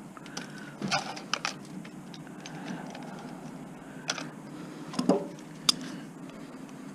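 Scattered light clicks and clinks, about six or seven at irregular intervals, from small plastic and metal parts being handled while an electronic unit is taken apart for scrap.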